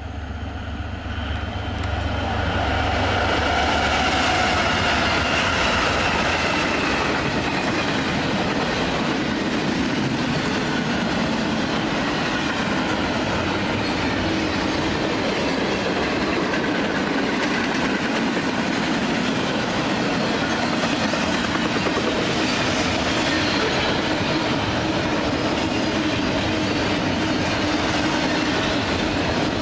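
BNSF double-stack intermodal train passing at speed. A low diesel rumble fades over the first few seconds as the sound swells to a steady rolling of many wheels on the rails, with clickety-clack over the rail joints.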